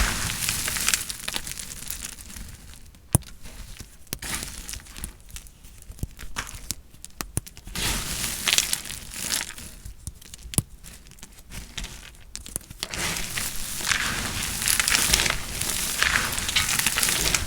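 Knife cutting through dry soap: irregular crisp crackling and crunching with a few sharp clicks of the blade. It turns into a denser run of crackling in the last few seconds.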